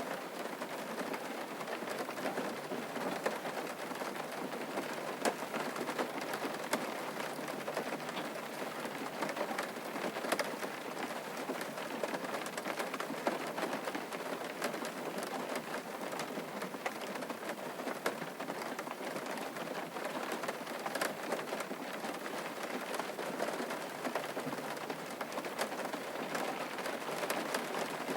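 Steady rain falling on a surface, with many individual drops ticking sharply through it.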